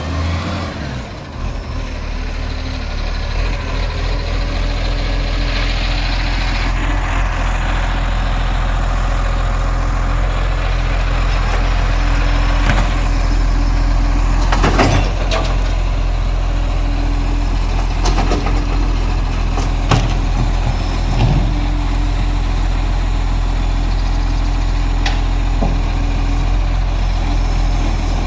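Garbage truck engine running steadily, with several sharp knocks and clanks over its drone between about twelve and twenty-five seconds in.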